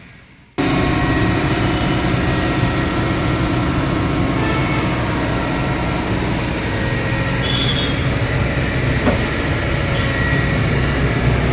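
Excavator's diesel engine running steadily, a loud, even machine drone that starts abruptly about half a second in.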